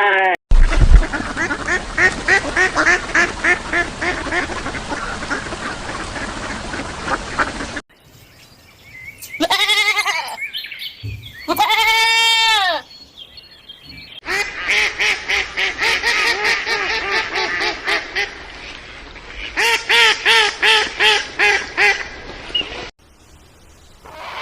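Farm animal calls in separate clips: a flock of ducks quacking rapidly and continuously, then two drawn-out bleats from a goat, then more rapid duck quacking that comes in strong, evenly spaced bursts near the end.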